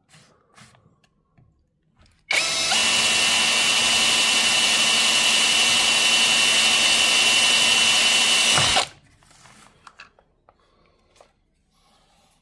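Electric power drill running at a steady speed for about six seconds, starting abruptly a couple of seconds in and cutting off, with faint handling clicks before and after.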